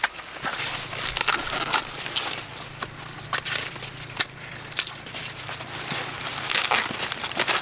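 Dry corn leaves and husks crackling and rustling in irregular bursts, with a steady low hum underneath from about half a second in.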